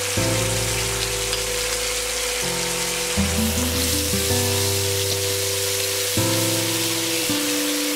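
Chili paste frying in hot oil in a pan, with a steady sizzle as it is stirred with a wooden spatula. Background music with held notes plays underneath.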